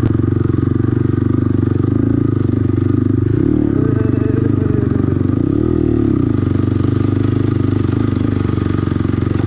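Motorcycle engine running steadily under way, its pitch rising and falling briefly twice, about three and a half and six seconds in.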